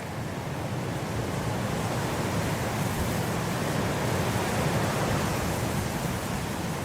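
Blizzard wind blowing as an even rushing noise. It swells in a gust over the first few seconds and eases slightly near the end.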